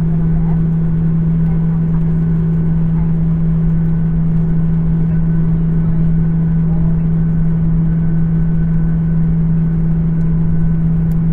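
Embraer 175's GE CF34-8E turbofan engines heard from inside the cabin: a steady, loud low hum with a fainter high tone above it, unchanging throughout.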